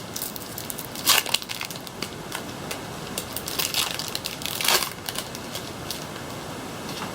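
Crinkling of a foil Pokémon booster pack wrapper as cards and packs are handled, in a few crackly bursts, the loudest about a second in and again about four to five seconds in, over a steady background hiss.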